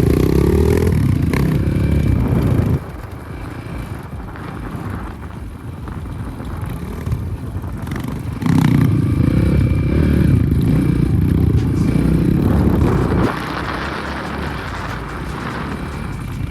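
Air-cooled 300 cc enduro motorcycle engine pulling under throttle, then easing off to a lighter run about three seconds in. It opens up again from about eight to thirteen seconds in before easing off once more.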